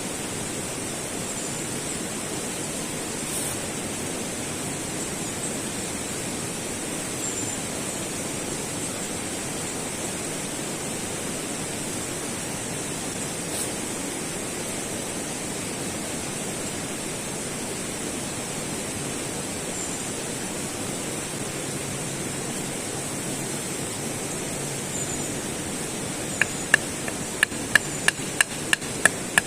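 Steady rushing background noise. Near the end it is joined by rapid, sharp hammering knocks, about three a second.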